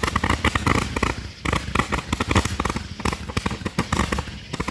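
Multi-shot consumer firework cake firing, a rapid, continuous string of sharp pops and crackles.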